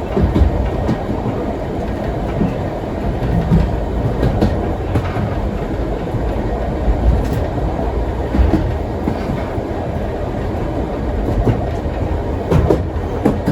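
Historic steam-train carriage rolling along the track: a steady low rumble, with the wheels clacking over rail joints now and then.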